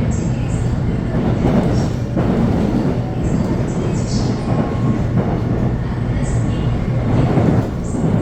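Electric commuter train running on its rails: a steady, loud rumble with brief high-pitched wheel squeals every second or so.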